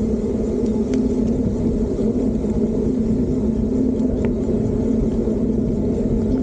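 Fiido D3 Pro electric bike riding along: a steady rumble of wind and tyres with an even hum.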